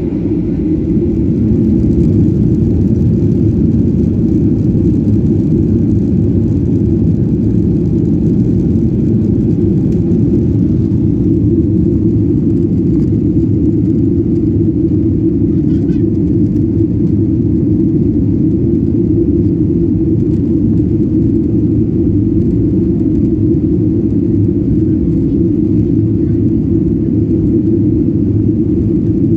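Boeing airliner's jet engines and airframe heard from inside the passenger cabin: a loud, steady low rumble that builds over the first couple of seconds, as at takeoff.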